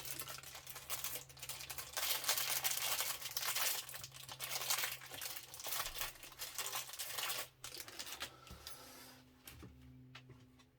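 Crinkling and rustling of a plastic kit-parts bag being handled. It is dense for the first seven seconds or so, then thins to a few faint handling clicks.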